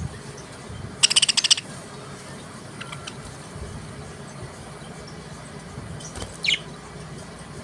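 Pet budgerigars chirping: a short, rapid chattering trill about a second in, a few faint chirps, then a single falling chirp near the end.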